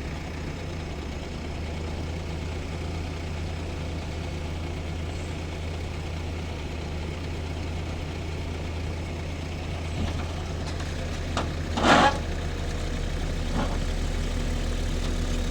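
Diesel engines of heavy earth-moving machines, an excavator and a backhoe loader recovering a stuck dump truck, running with a steady low drone. About twelve seconds in there is one short, loud burst of noise.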